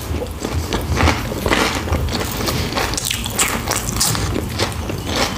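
A person biting and chewing a hot sandwich, with many short crunchy mouth sounds coming at an irregular pace.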